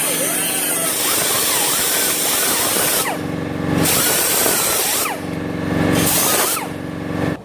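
Electric power tool cutting steel, its motor pitch rising and falling as it bites and frees, with a harsh hiss of grinding metal; it stops suddenly near the end.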